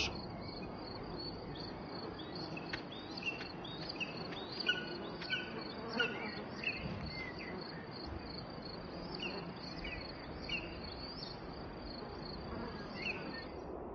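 Steady high insect chirring, a continuous pulsing trill, with scattered short falling chirps over it.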